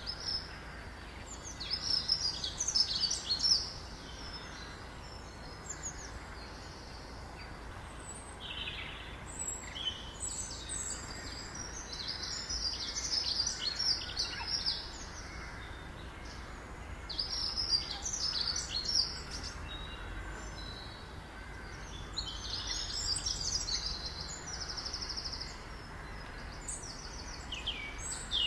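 Small birds chirping in short bursts of rapid high notes every few seconds, over a steady low background rumble.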